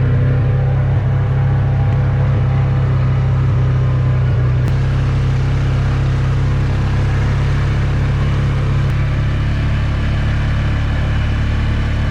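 A motor vehicle's engine running steadily at an even speed, a loud, constant low drone that starts abruptly just before and holds unchanged throughout.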